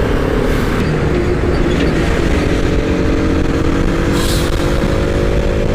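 Motorcycle riding noise in traffic, with wind and road rush. A steady drone of several tones starts a little over two seconds in and cuts off sharply at the end.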